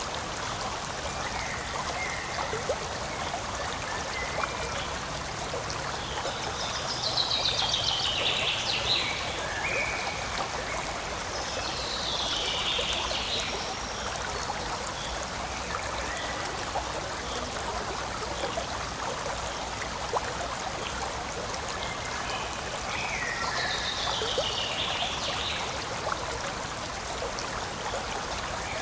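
Forest stream flowing and trickling steadily. Short, high, falling chirps sound over it three times.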